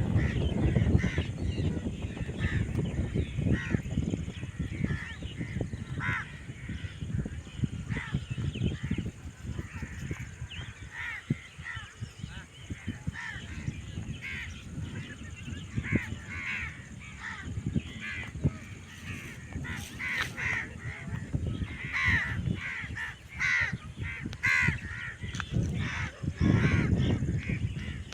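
Crows cawing over and over, short harsh calls coming thicker in the second half, over the low rumble of a flowing river.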